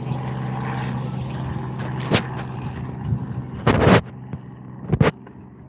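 A steady low mechanical hum, which drops away about four seconds in, broken by three loud sudden thumps.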